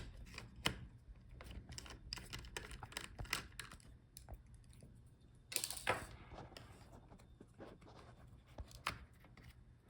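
Faint small clicks and light scrapes of a laptop's M.2 NVMe SSD and its metal bracket being handled, with a short louder scraping rustle about six seconds in.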